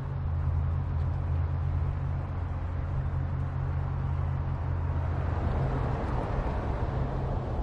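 Audi RS 5 Coupé running at a steady speed: an even, low engine drone over a steady haze of road noise.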